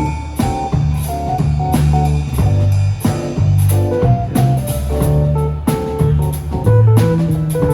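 A live band playing an instrumental groove: a melodic electric guitar line over a bass guitar and drum kit.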